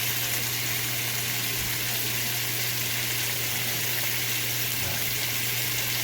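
Chicken kebab pieces sizzling steadily in hot oil in a frying pan as they are seared to seal the juices inside.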